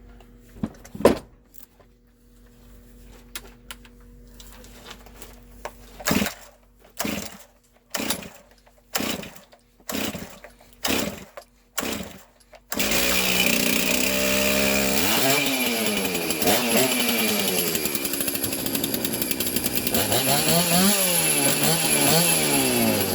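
Freshly rebuilt Stihl 036 two-stroke chainsaw, with no bar or chain fitted, being pull-started: about seven pulls of the starter cord, roughly one a second, before it catches just past halfway. It then runs and is revved up and down a couple of times.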